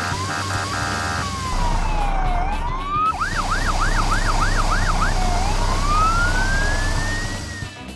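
Siren wailing: a slow fall and rise, then a quick run of about eight fast yelps, then a long rising wail, over a low steady rumble. It opens with a brief stretch of pulsing electronic tones.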